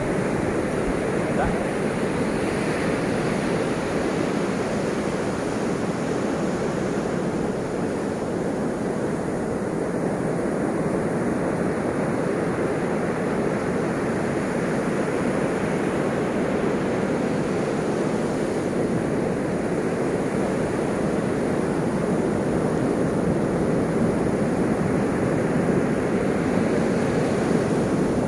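Ocean waves washing on a shore in a steady, continuous rush, with slow gentle swells in loudness.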